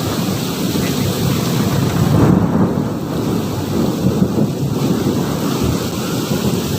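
Thunderstorm with heavy rain: a continuous low rumble of thunder under the steady noise of falling rain, with no single sharp crack.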